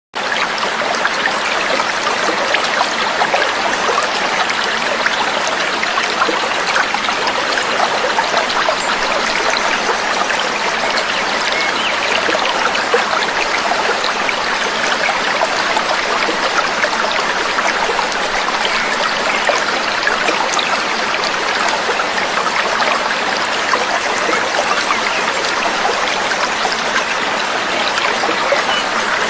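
Steady babbling, trickling water, a dense patter of small splashes and gurgles that cuts in suddenly at the start.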